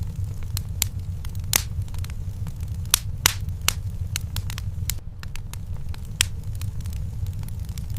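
Fireplace fire crackling, with irregular sharp pops about once or twice a second over a steady low rumble.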